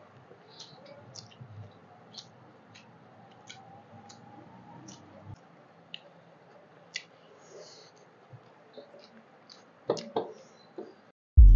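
Faint eating sounds: scattered short, wet mouth clicks of someone chewing rice and chicken curry eaten by hand, a little louder about ten seconds in. Near the very end, loud electronic music with a heavy beat cuts in abruptly.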